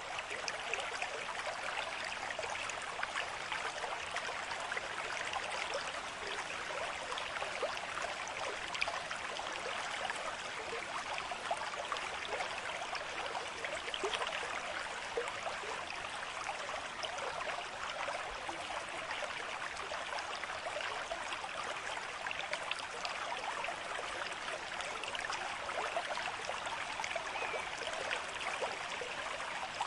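Stream water running steadily: an even rush made up of countless small splashes, with no change throughout.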